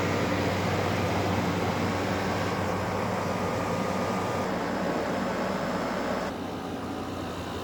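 LG air conditioner running steadily, its fan blowing with a low hum underneath; the sound drops a step in level about six seconds in.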